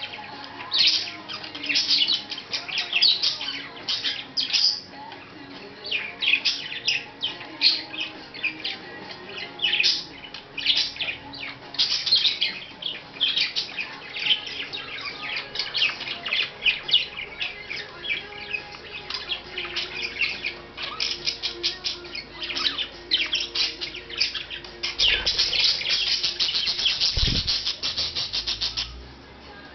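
Budgerigar chirping and chattering in quick, short calls, running together into a dense stretch of chatter near the end.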